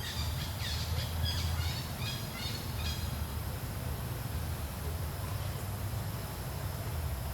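A bird chirping: short high calls repeated several times a second through the first three seconds, then stopping. Under it a steady low rumble runs throughout.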